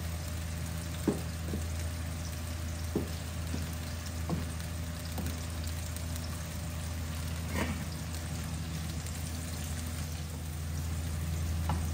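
Hotdogs sizzling steadily in shallow oil in a nonstick wok, with a few sharp knocks of a wooden spatula against the pot and the pan as the cook stirs and turns the food.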